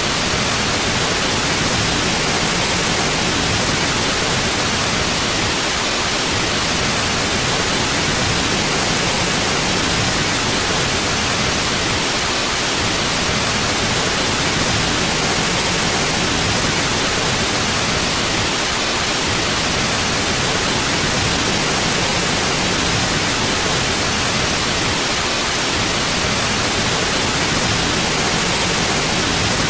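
Steady synthetic white noise: an even, unchanging hiss with no rhythm or events, strongest in the upper range.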